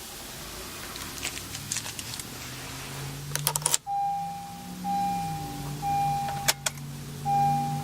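Keys jangle and click in the ignition, then the 2012 Honda CR-V's 2.4-litre four-cylinder engine starts about four seconds in, rises briefly and settles to a quiet idle. A warning chime beeps about once a second over the idle.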